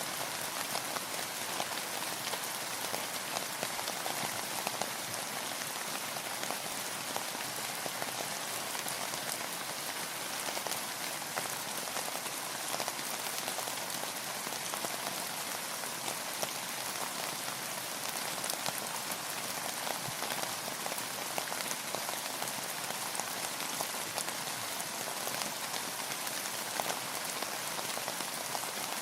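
Steady rainfall: a continuous hiss of rain with many individual drops pattering on a surface, even throughout.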